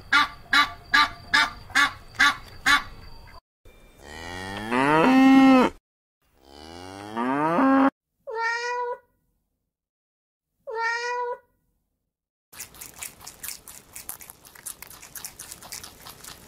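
A string of short animal-call clips: a rapid run of about three calls a second, then two long cattle moos rising in pitch, two short cat meows a couple of seconds apart, and a light scratchy patter near the end.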